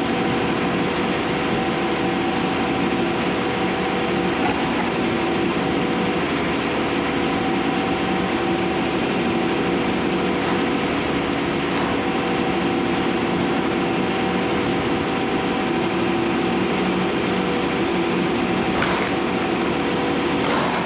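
Diesel engine of a Case IH 620 QuadTrac tractor running steadily, a constant hum with a few steady tones over a dense mechanical noise.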